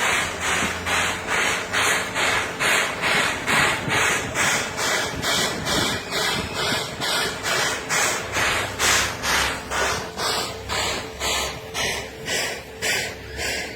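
JNR Class 8620 steam locomotive working under steam, its exhaust chuffing in a steady rhythm of about three beats a second, the beats spacing out a little near the end, over a low rumble.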